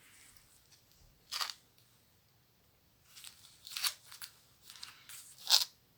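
Paper of a comic book being handled and its pages turned: several short, crisp rustles, the loudest near the end.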